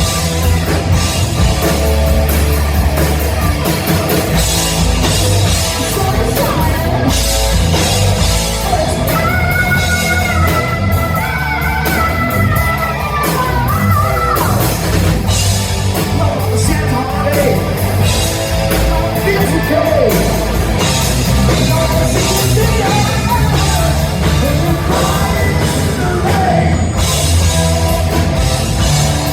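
Live hard-rock band playing loud in a large room: electric guitars, bass and drums under a lead vocalist who sings and yells high, sliding lines, most plainly from about a third of the way in.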